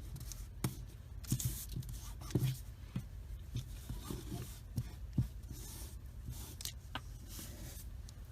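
Paper being handled and rubbed down on a tabletop while edges are glued: scattered light taps and short rustling scrapes, over a steady low hum.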